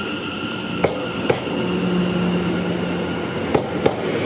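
Electric multiple-unit train moving along the platform: a steady whine, with a handful of sharp clicks from the wheels crossing rail joints.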